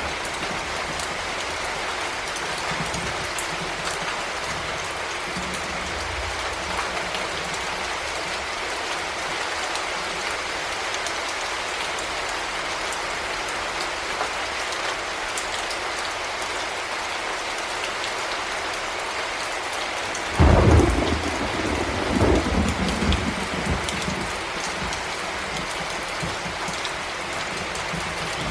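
Heavy rain falling steadily, with a clap of thunder about two-thirds of the way through that rumbles on for a few seconds.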